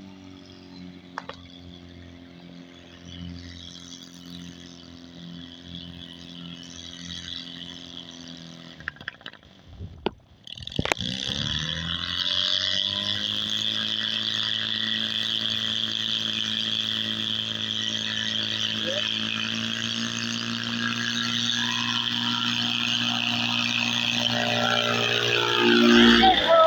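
Two-cylinder engine on a test run, running at a low, steady speed, then faltering briefly with a few sharp clicks about ten seconds in. It then revs up and holds a louder, higher steady speed, surging loudest just before the end.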